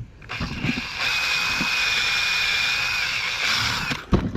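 Power drill running under load as it bores through a snapped bolt in a cylinder head, with a steady whine, stopping about four seconds in, then a single knock.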